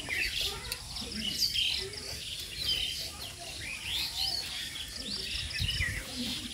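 Small birds chirping, many quick overlapping calls.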